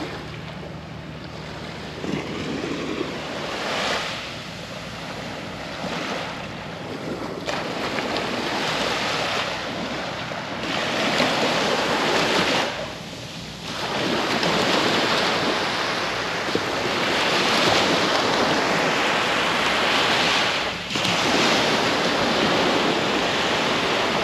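Sea surf washing onto a sandy beach, the rush of water rising and falling in repeated swells, with wind buffeting the microphone.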